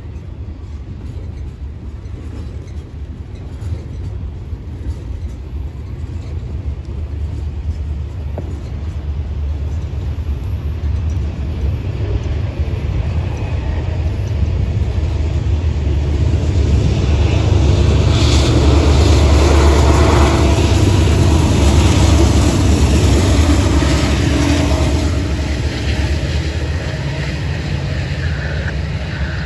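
Freight train cars, tank cars and covered hoppers, rolling past at close range with a steady low rumble of wheels on rail. A second freight, a double-stack intermodal train on the far track, comes through about halfway in, and the sound swells and grows harsher before easing a little near the end.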